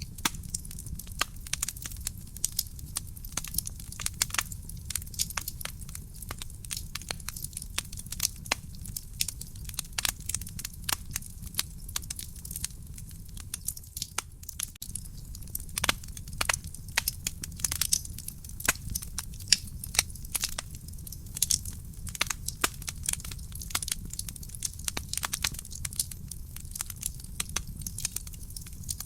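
Burning firewood crackling in a fireplace: dense, irregular sharp pops and snaps over a steady low rumble, the pops coming thickest in the middle of the stretch.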